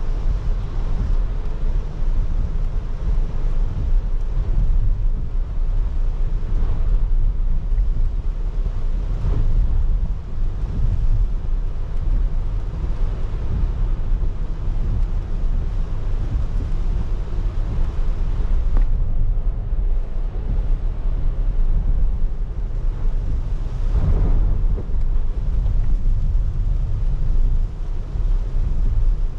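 Car driving in rain: a steady low road rumble with the hiss of rain and tyre spray on wet pavement, and a couple of brief louder swishes in the second half.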